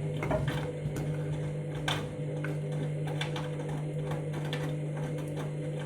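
Candy washing machine's drum motor running with a steady hum during its load-weight detection at start-up, with irregular light clicks and taps over it.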